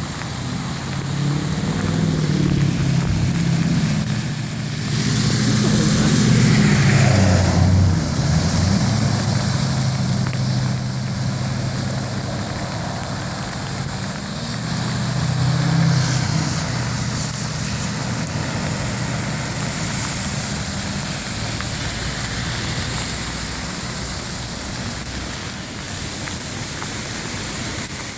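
Vehicle engines running with a steady hiss and wash of water, as cars move through a flooded street; an engine note falls about seven seconds in.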